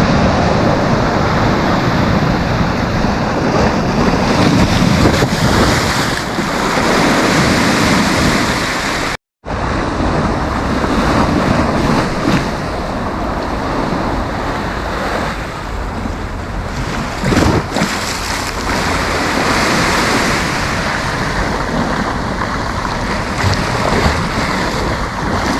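Sea waves breaking and washing onto the beach in a continuous surge that swells and eases, with wind rumbling on the microphone. The sound cuts out completely for a moment about nine seconds in.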